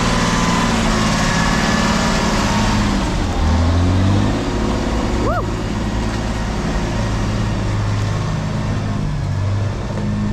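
Off-road haul truck's diesel engine running under load as it is driven, its revs rising and falling. A short high chirp is heard about five seconds in.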